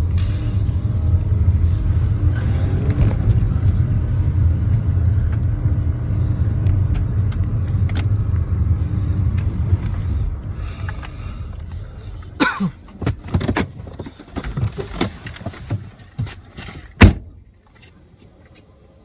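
A car driving, heard from inside the cabin as a heavy low rumble that dies away about ten seconds in. It is followed by a run of sharp knocks and thumps, the loudest a single hard bang near the end.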